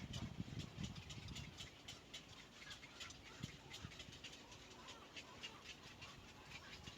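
Faint, rapid high-pitched ticks and squeaks from birds at a nest, several a second, with a few low thumps in the first second.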